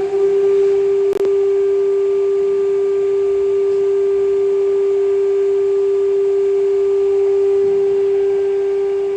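CNC router spindle running at a steady high speed, a loud steady whine at one pitch, with a single sharp click about a second in.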